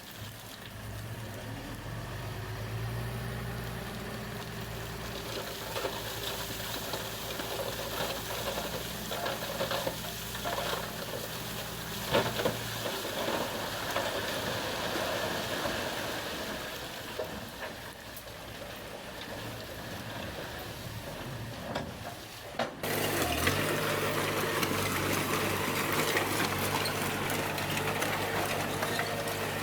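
Bulldozer's diesel engine running under load with a steady drone and a rushing, rattling noise over it. About two-thirds of the way through, the sound cuts off suddenly and comes back louder at a different engine pitch.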